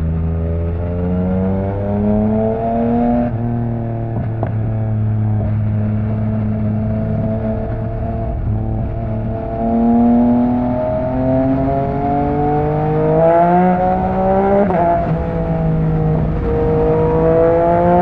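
Yamaha MT-09's three-cylinder engine through an Akrapovič exhaust, running under way: the revs climb slowly and drop back with each gear change, with a few quicker rises and drops about three-quarters of the way through.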